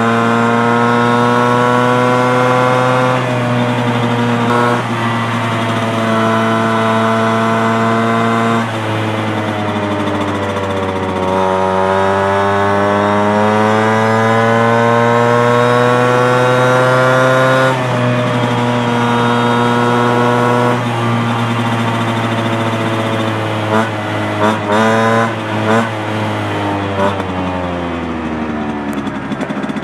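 Piaggio Ciao moped's two-stroke single-cylinder engine, tuned to 65 cc with a Giannelli City Power exhaust, running hard with its pitch following the throttle: held high, dropping sharply a few times, climbing steadily for several seconds in the middle, then several quick blips about three-quarters through and a long fall near the end.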